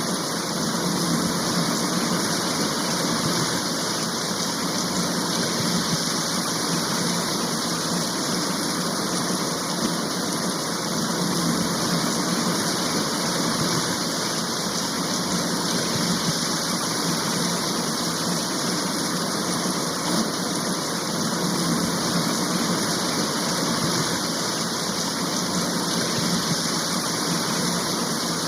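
Steady, even sound of a heavy rain shower, unchanging throughout.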